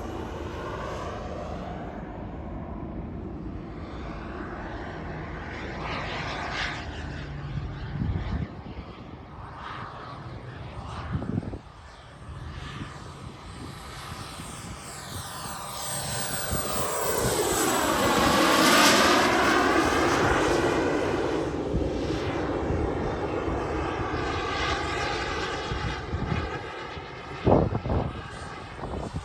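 JetCat P300 Pro turbine of a BVM Desperado RC jet in flight. Its whine swells to a loud pass a little past halfway, then fades as the jet flies away. A short sharp knock comes near the end.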